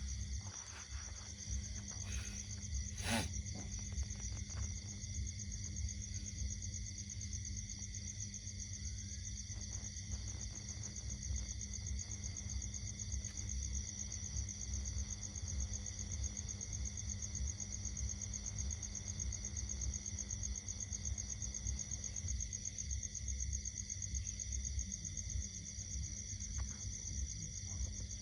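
Steady chorus of insects trilling in several high pitches, with a constant low rumble beneath. Two sharp clicks come about two and three seconds in.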